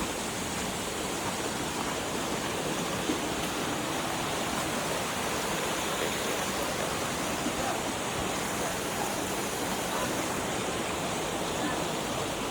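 Steady rush of waterfall water, an even hiss without breaks.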